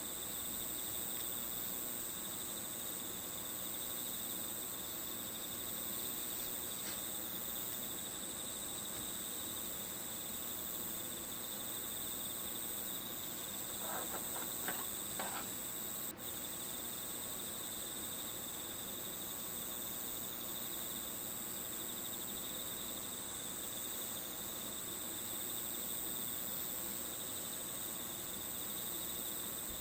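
Crickets chirping in a steady, continuous high-pitched chorus. About halfway through, three brief sounds stand out.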